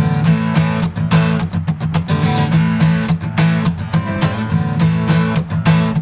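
Acoustic guitar strummed in a quick, steady upbeat rhythm, playing an instrumental passage between sung lines of a song.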